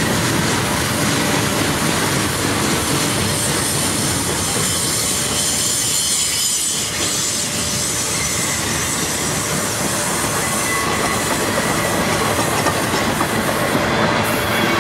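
Freight cars rolling past close by: a steady rumble and rattle of steel wheels on rail, with a faint thin squeal of wheels against the rail.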